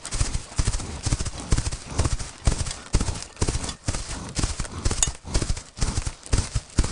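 Hooves clip-clopping on hard ground: a run of uneven knocks, about two to three strikes a second.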